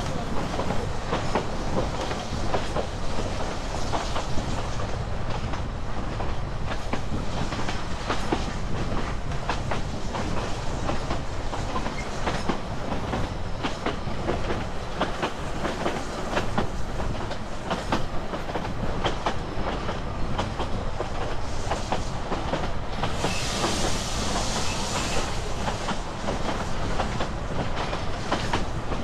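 Narrow-gauge passenger train coach rolling along the track, its steel wheels clicking steadily over the rail joints, with a hiss lasting about two seconds near the end.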